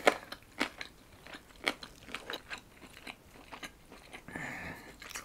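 Close-miked chewing of a mouthful of food, with irregular crunchy clicks.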